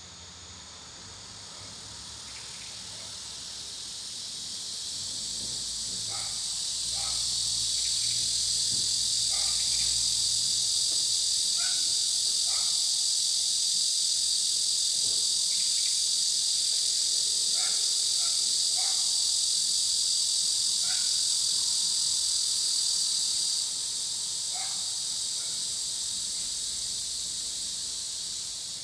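A chorus of insects buzzing on a high, steady note. It builds over several seconds, holds, then drops back a little about 24 seconds in.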